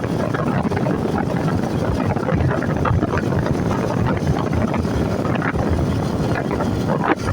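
Wind buffeting the microphone of a moving vehicle, over a steady low rumble of engine and road noise.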